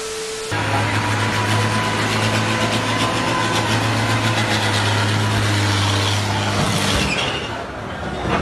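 A heavy vehicle's engine running steadily, with a loud, even low drone and a wash of noise over it; the drone stops about seven seconds in.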